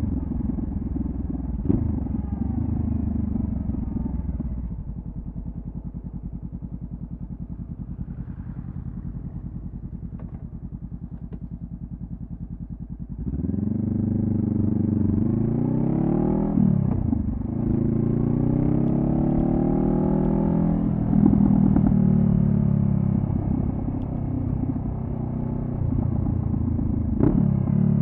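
2014 Honda CB500F's parallel-twin engine through a Delkevic carbon-fibre slip-on exhaust. It runs along, then settles to a steady, quieter idle for several seconds, and about 13 seconds in pulls away, rising in pitch through the gears, with a drop at each upshift.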